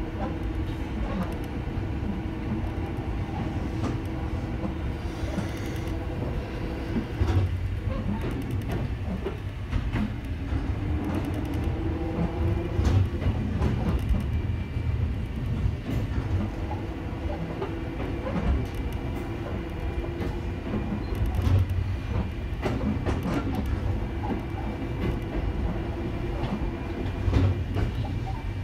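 Ohmi Railway electric train running along the track, heard from inside at the front: a steady low rumble of wheels on rail, with a faint steady hum that fades and returns and the clack of rail joints at irregular intervals of a few seconds.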